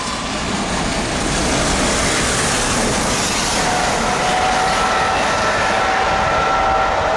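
Passenger coaches of a steam-hauled express running past at speed: a steady, loud rush of wheels on rails. About four seconds in, a steady whine joins it.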